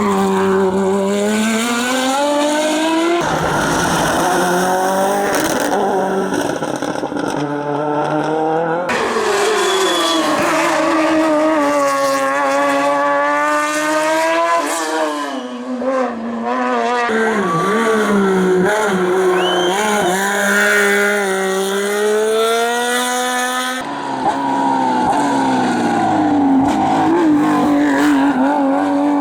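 Racing car engines running hard up a hillclimb course, revving up and dropping back again and again through gear changes and corners; several cars are heard in turn.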